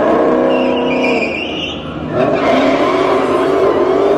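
A car engine running hard at high revs. A high tyre squeal runs through the first couple of seconds, then the engine note climbs steadily as the car accelerates.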